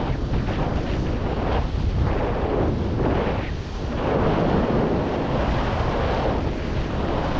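Strong wind buffeting the microphone in flight: a loud, gusting rumble that dips briefly midway.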